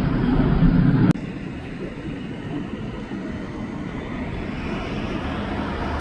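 Jet airliner engines rumbling loudly, cutting off abruptly about a second in and leaving a quieter steady jet rumble that swells slightly near the end.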